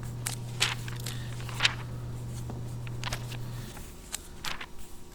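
Bible pages being turned: faint rustling and light ticks, over a low steady hum that stops about three and a half seconds in.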